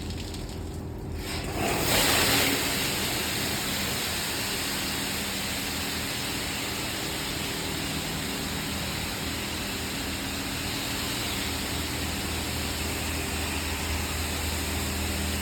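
PDQ Laserwash 360 Plus touchless car wash spraying the car: a rush of high-pressure water starts suddenly about two seconds in and then runs on steadily, over a low machine hum.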